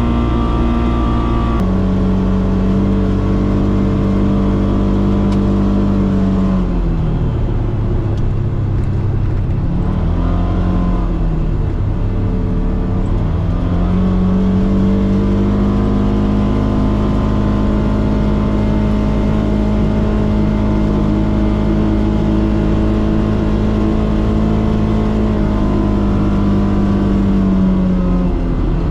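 Polaris Xpedition side-by-side's engine running under way at a steady pitch. It eases off sharply about a quarter of the way in, wavers, then revs back up and holds steady again.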